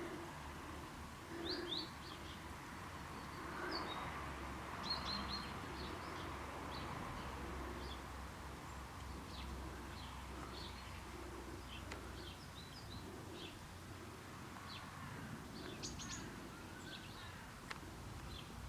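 Birds chirping: many short, high chirps scattered throughout, with faint low notes recurring beneath, over a steady low hum.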